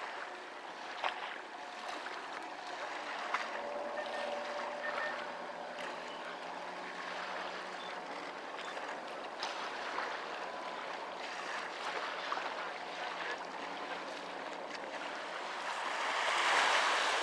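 Steady outdoor rushing of wind and water at the waterside, with a few faint clicks, swelling louder near the end.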